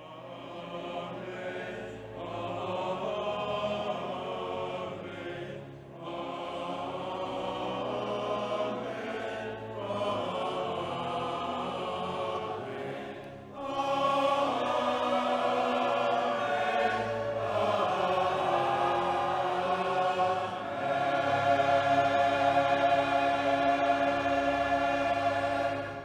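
Choir singing in long held phrases with short breaks between them, growing louder about halfway through and tapering off at the end.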